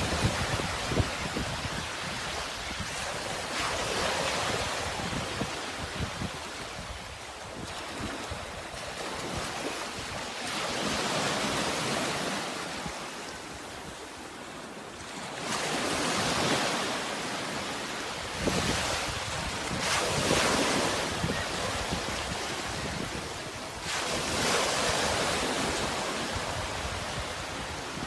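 Sea waves washing in, the surf swelling up and falling back about every four to six seconds, with wind rumbling on the microphone.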